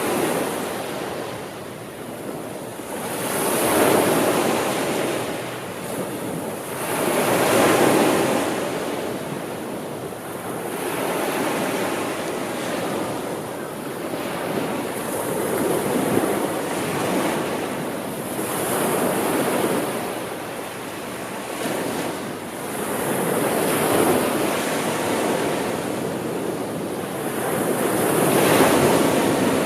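Sea waves breaking and washing on a shore, swelling and receding in surges every few seconds.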